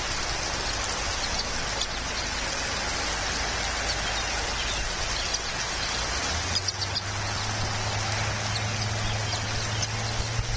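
Steady rain falling, with a few faint high bird chirps now and then. A low steady hum comes in about six and a half seconds in.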